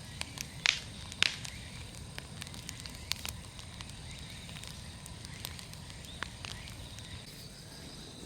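Firewood burning in a large bonfire, crackling with irregular sharp pops, the two loudest close together about a second in.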